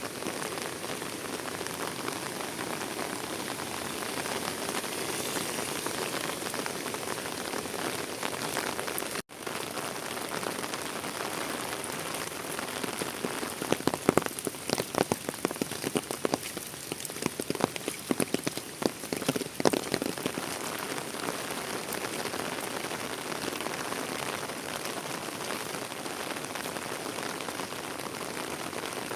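Steady heavy rain falling on surfaces, with a stretch of loud, sharp individual drops tapping in the middle. The sound cuts out for an instant about nine seconds in.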